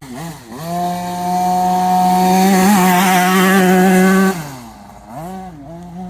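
Small dirt bike engine revved up and held at high revs for about three seconds, then the throttle is shut and it is blipped twice more.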